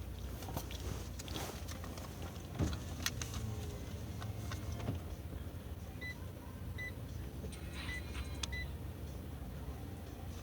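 Inside a car: a steady low engine hum with a few sharp clicks and rustles in the first few seconds, then four short high-pitched beeps spaced under a second apart.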